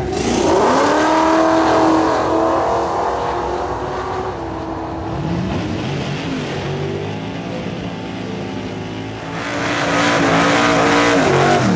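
High-performance car engine accelerating hard: its pitch climbs steeply in the first second, then holds high. A second loud surge of engine noise builds from about three-quarters of the way through and cuts off at the end.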